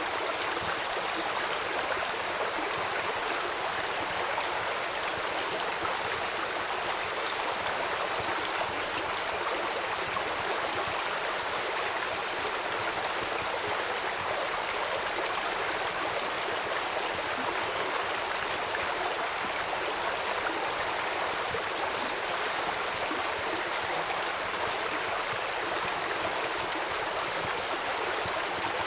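Steady rushing of a flowing stream. A faint high chirp repeats about twice a second through the first third.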